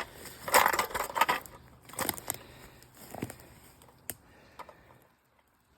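Irregular crunching and rattling of a hiker walking a wooded trail, coming in short clusters, with a single sharp click about four seconds in.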